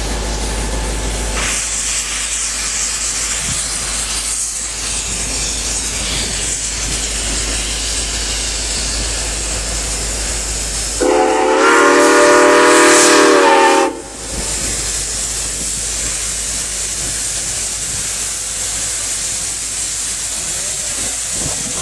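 Steam locomotive #4960, a 2-8-2 Mikado, hissing steadily as it releases steam. About halfway through it sounds one long steam-whistle blast of several tones lasting about three seconds, which cuts off sharply.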